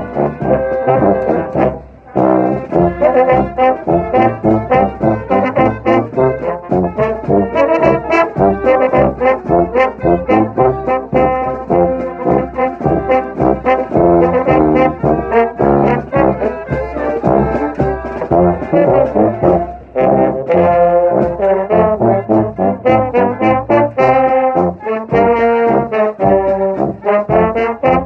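Brass pep band playing a school song with a regular beat, with brief breaks about two seconds in and again around twenty seconds.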